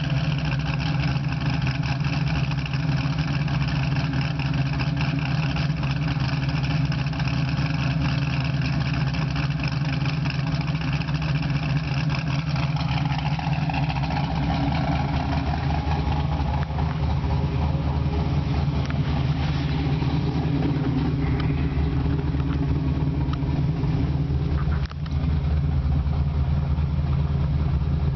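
Ford Mustang's 418 Windsor stroker V8 idling steadily through a Borla exhaust, with a deep, even exhaust note and a brief dip in loudness near the end.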